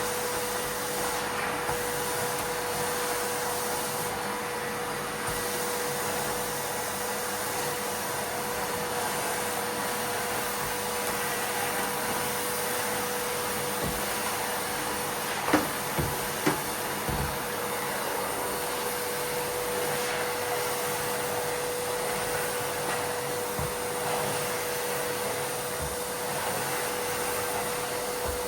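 Miele vacuum cleaner running steadily with a constant hum, and three sharp clacks a little past halfway as Lego pieces are sucked up.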